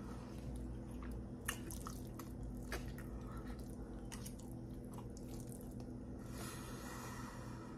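Close-miked eating of cheddar pasta: wet chewing and mouth smacks with scattered sharp clicks, and a longer hissy stretch near the end. A steady low hum runs underneath.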